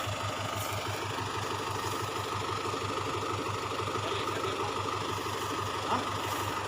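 Vehicle engine idling steadily, with an even low throb.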